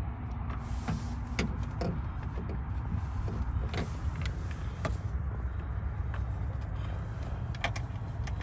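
Scattered sharp clicks and light knocks of hand-tool work in the engine bay, coming every second or so at irregular moments, over a steady low rumble.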